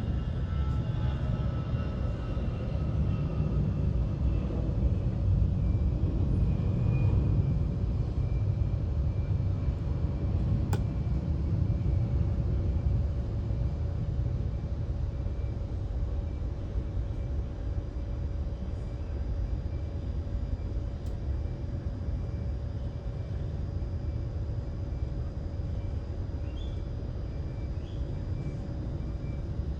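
Jet airliner taking off, its engines a low rumble that swells over the first several seconds and then slowly fades as it climbs away, with a faint steady whine on top.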